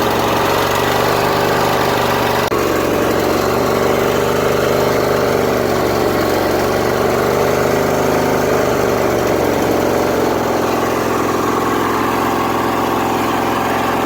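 Craftsman DLT3000 lawn tractor engine running on full choke, its speed wavering up and down for several seconds in the middle. The engine is choking itself out, running rich from a flooding carburetor.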